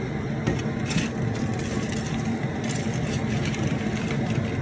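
Propane burner running steadily under a boiling crawfish pot, with a few light clicks and rattles on top.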